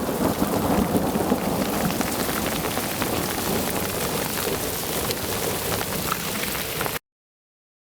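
A thunderstorm: heavy rain mixed with falling ice pellets, many fine ticks of drops and ice hitting. A low rumble of thunder eases off over the first couple of seconds. The sound cuts off suddenly about seven seconds in.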